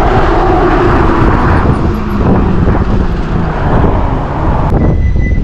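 Heavy wind buffeting the microphone while riding an electric motorcycle at speed, mixed with road noise. The wind noise eases near the end.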